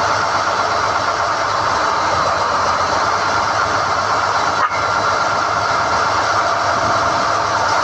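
SDH-1600 core drilling rig running steadily while hoisting NQ drill rods, a loud, even machine noise with a brief dip a little past halfway.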